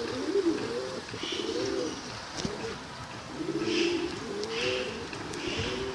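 Pigeons cooing: several low, arching coos overlapping one another, with a few short high chirps from small birds mixed in.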